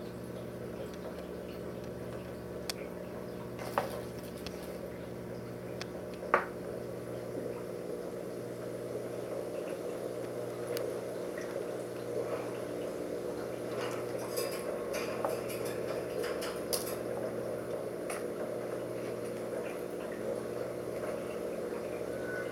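Steady low hum with scattered light clicks and clinks: a sharp one about six seconds in and a cluster in the middle.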